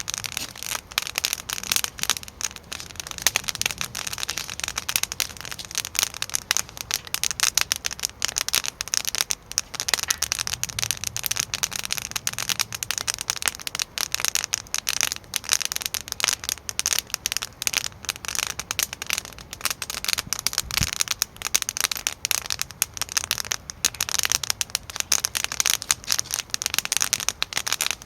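Wood fire crackling and popping, a dense, irregular stream of small cracks, with one duller knock about three quarters of the way through.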